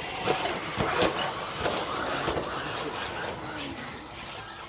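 Several 1/10-scale RC stadium trucks running together on a dirt track: whining motors rising and falling in pitch, with tyre noise and a handful of sharp knocks in the first two seconds.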